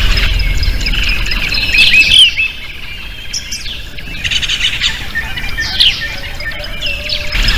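Many small songbirds chirping and singing in quick, overlapping calls. A steady low hum underneath drops away about two and a half seconds in.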